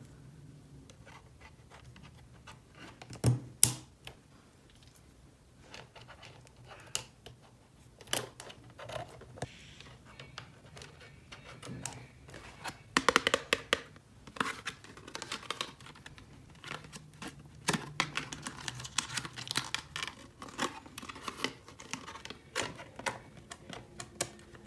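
Irregular clicking, tapping and scratching of small plastic toy pieces being handled, with dense runs of quick clicks in the middle and later on.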